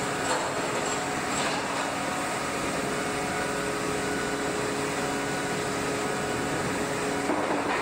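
Steady machine hum of a heavy hydraulic forming press running, with a couple of constant low tones and no strikes or impacts.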